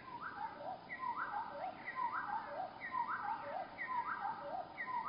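A songbird's song slowed to one-third speed, so it sounds deep and drawn out: the same phrase of several sliding notes repeats about once a second.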